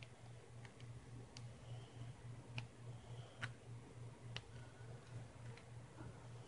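Faint, light clicks and ticks at irregular intervals from hands handling and sticking adhesive case badges onto a computer case, over a low hum that pulses about three times a second.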